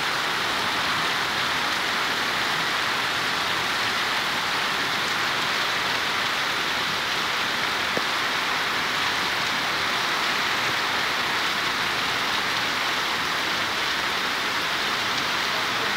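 Heavy rain falling steadily on a street and rooftops, a dense even hiss.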